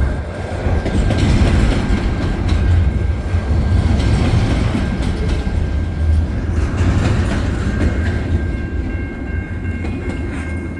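Freight cars of a long CN freight train rolling past close by: a heavy low rumble with the clatter of wheels over rail joints, easing a little near the end as the tail of the train goes by. A faint steady high whine appears in the last couple of seconds.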